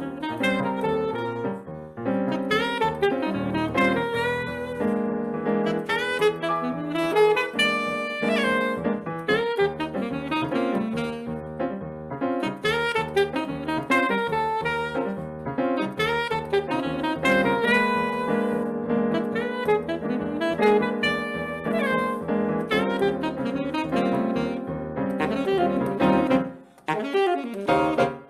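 Saxophone playing a busy melodic line over piano accompaniment, in a live Brazilian jazz performance, with a short break in the playing near the end.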